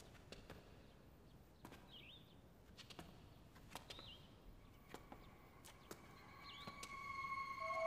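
Faint bird chirps, a short dipping call about every two seconds, over soft scattered footsteps. Gentle music with held notes fades in near the end.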